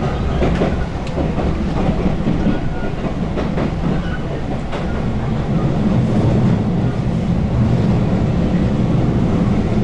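A JR West 221 series electric train heard from inside the car while running at speed: a steady rumble of wheels on rail, with a few clicks from rail joints near the start and about four seconds in, and the rumble growing stronger in the second half.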